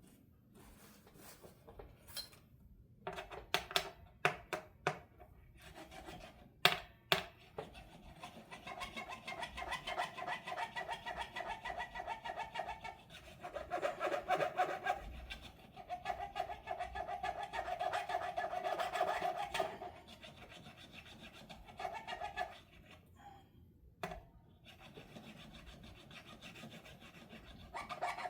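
Hand fret dressing on an electric guitar: an abrasive tool rubbing back and forth over the metal frets in fast, even rasping strokes, with a few sharp clicks early on before the steady rubbing starts about eight seconds in. The strokes ease off to lighter rubbing near the end.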